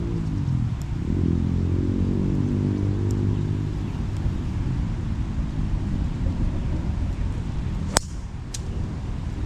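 Golf cart driving along, its motor a low hum that dips and rises in pitch in the first second and then runs on more roughly. A single sharp click sounds about eight seconds in, followed by a fainter one.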